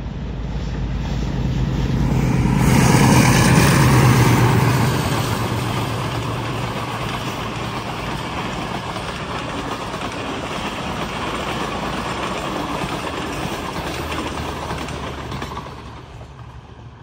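Pakistan Railways express passenger train hauled by a Hitachi diesel locomotive, passing through the station at speed on the main line. It is loudest a few seconds in, then the coaches' wheels run on steadily over the rails, and the sound drops away near the end as the train clears.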